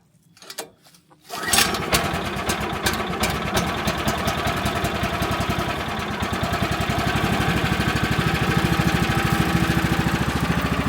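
Woodland Mills HM130 Max sawmill's gas engine starting about a second and a half in, then running steadily at idle with an even, fast firing beat.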